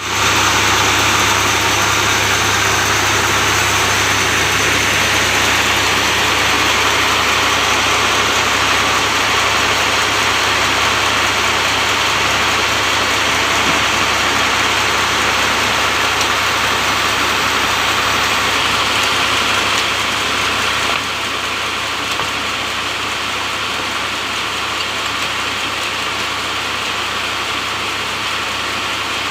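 Sawmill machinery running steadily, with a low hum under a broad noisy whir; it gets somewhat quieter about two-thirds of the way through.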